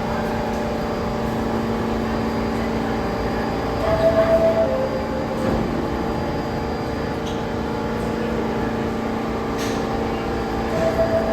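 New York City subway train standing in the station with a steady electrical and air-conditioning hum. About four seconds in, the two-note descending door-closing chime sounds, and it starts again near the end.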